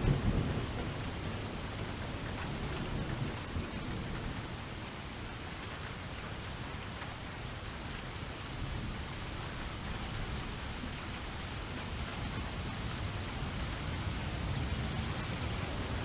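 Steady rain falling, with low rolling thunder rumbling underneath, strongest in the first second and again near the end.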